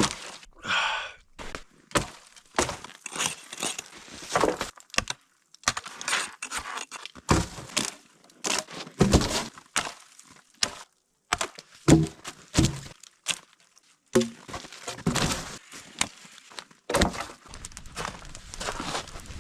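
Firewood being gathered and handled: an irregular run of knocks, cracks and thunks as sticks snap and pieces of wood knock together, the heaviest thunks around the middle.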